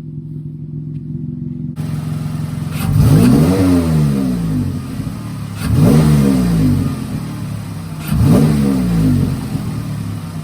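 Dodge Challenger SXT's 3.6-litre V6 idling, then revved three times, each rev climbing and falling back to idle about two and a half seconds apart.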